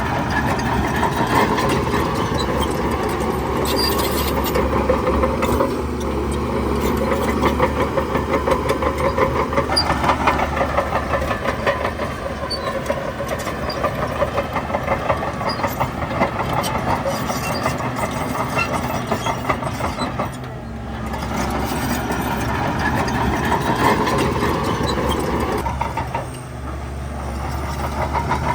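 Heavy diesel engine of earthmoving machinery running steadily under changing load, with two brief drops in level about two-thirds of the way through and near the end.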